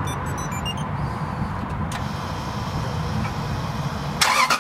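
A few short electronic beeps from a remote-start fob, then the Lexus LX470's 4.7-litre V8 running at idle. Near the end, old transmission fluid suddenly starts gushing from the disconnected cooler line and splashing into a plastic bin: the running engine's transmission pump is pushing the old fluid out during a fluid exchange.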